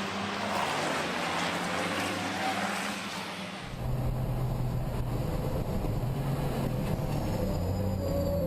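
Racing trucks' diesel engines running. About three and a half seconds in, the sound changes abruptly from a broad rushing noise to a steady, low engine drone.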